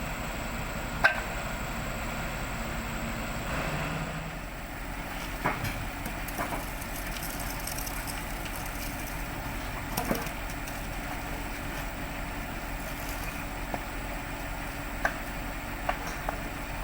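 Heavy equipment running steadily, with a handful of short sharp knocks or cracks scattered through it, the loudest about a second in.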